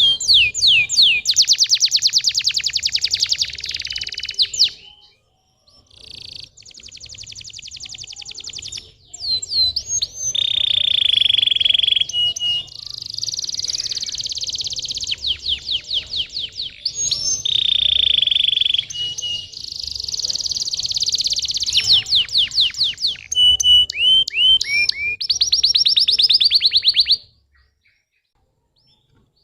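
Canary singing: a long song of fast trills and repeated falling notes, with two longer trills lower in pitch. It pauses briefly about five seconds in and stops near the end.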